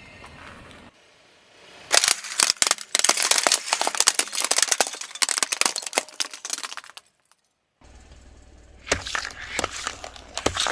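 A car tyre rolling over and crushing brittle objects: a dense run of sharp cracks and snaps that stops abruptly about seven seconds in. After a short break a low rumble comes in, and more cracking starts about nine seconds in.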